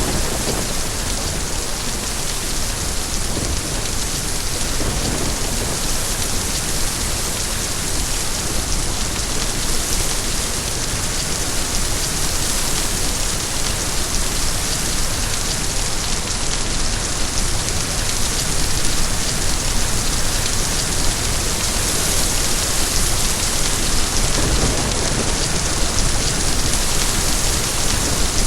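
Steady heavy rain falling, a dense even hiss of drops, with a low rumble swelling near the start and again about three-quarters of the way through.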